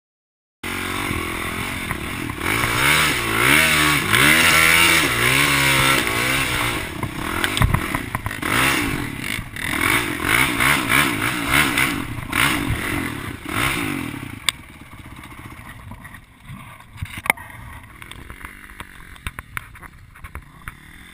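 Enduro dirt bike engine heard close up from the bike's own camera, revving up and down repeatedly as it rides through rough grass. About 14 seconds in the engine drops away, leaving a quieter background with a few sharp clicks and knocks.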